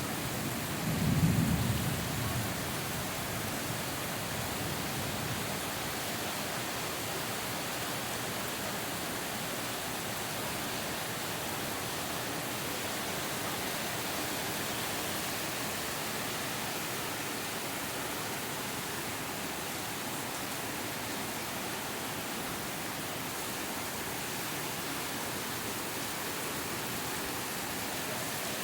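Steady rain with a single clap of thunder about a second in, rumbling briefly before only the rain remains.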